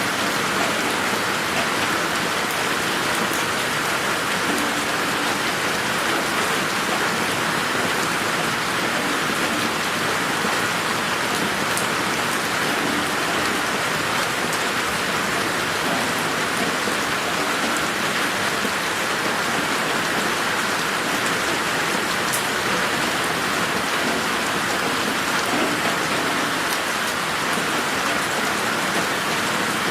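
Steady rain falling on garden plants and ground, an even hiss with scattered individual drops.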